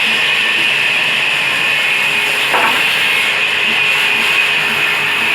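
Diesel-engine-driven sawmill saw cutting wood, a loud steady rasping hiss with a faint low pulse about twice a second and a brief louder scrape about halfway through.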